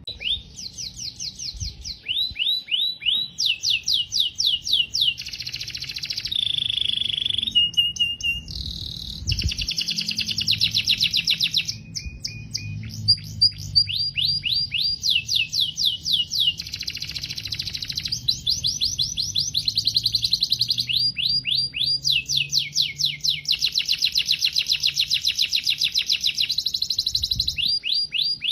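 Domestic canary singing a long continuous song: trills of quick, repeated falling notes, several to the second, alternating with buzzy rolls and a few held whistles, switching to a new trill every few seconds.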